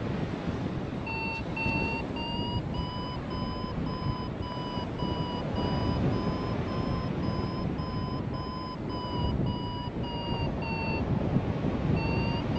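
Paragliding variometer beeping quickly, about two to three beeps a second, its pitch creeping slightly up and then back down; this is the signal that the glider is climbing in lift. The beeping stops briefly near the end and starts again, over a steady rumble of wind on the microphone.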